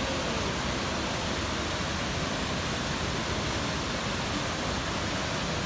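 High Force waterfall on the River Tees: a steady, unbroken rush of falling water.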